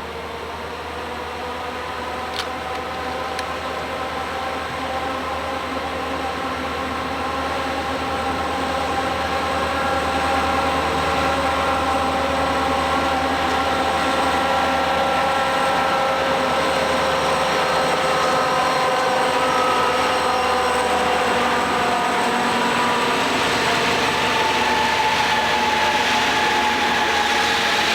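Diesel freight train approaching and growing steadily louder, with a whine of several tones that slowly drops in pitch over the rumble and noise of the train.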